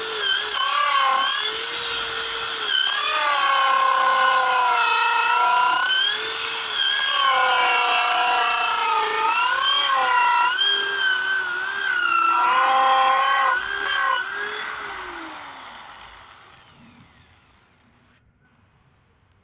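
A small motor whining at a pitch that wavers up and down, then fading away over the last few seconds.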